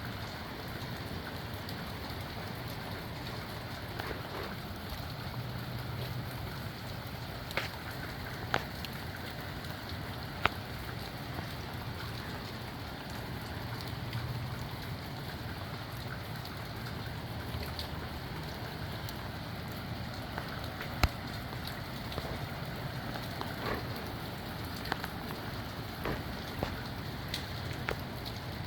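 Steady rain falling in a wind-driven storm, with a low rumble that swells and eases in gusts. Scattered sharp taps of single drops land close by, the loudest about ten and twenty-one seconds in.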